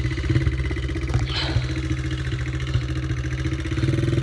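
Dirt bike engine idling steadily with an even, fast putter.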